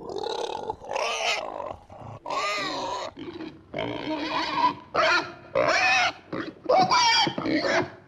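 A herd of pigs grunting and squealing: a rapid run of short calls, one after another, some sliding in pitch.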